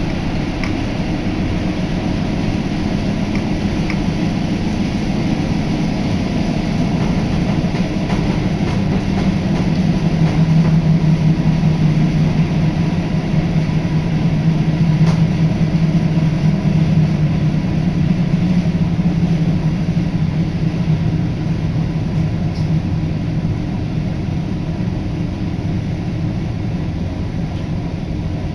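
Diesel local train running along the line, heard from inside the carriage: a steady rumble of engine and wheels, with a low drone that swells through the middle and eases off towards the end.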